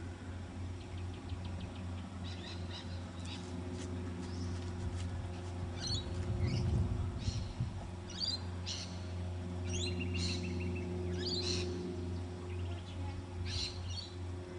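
Birds chirping: short, high calls with quick rising and falling glides, repeating every second or so over a steady low hum. A low rumble swells about halfway through.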